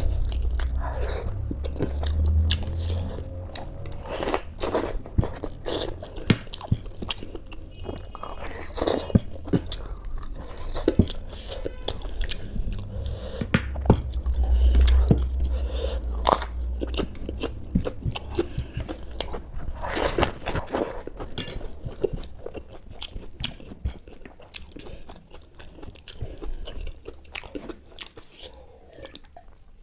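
A man chewing and biting on mouthfuls of rice and mutton that he eats by hand, with irregular mouth clicks and smacks throughout.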